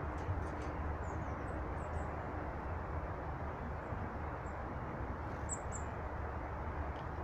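Small birds giving short, thin, high-pitched calls, a few about a second in and two clearer ones about five and a half seconds in, over a steady low rumble.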